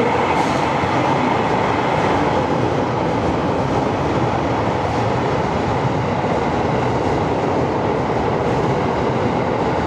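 Electric commuter train moving alongside a station platform: a steady, even rumble of wheels on rail and running gear.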